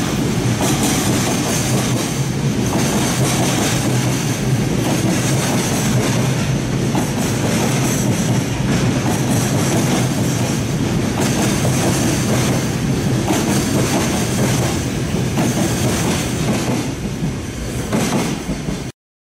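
A long freight train of container wagons rolling past at speed, its wheels clattering over the rail joints with a steady high squeal. The sound eases as the last wagons go by and cuts off suddenly near the end.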